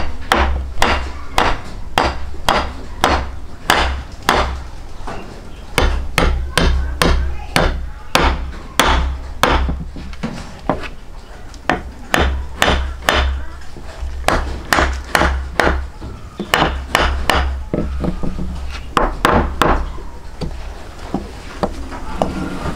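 Repeated sharp knocks, about two a second, in runs broken by short pauses.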